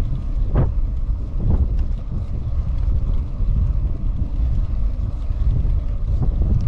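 Wind buffeting the microphone as a steady low rumble, with a couple of brief crackles about half a second and a second and a half in.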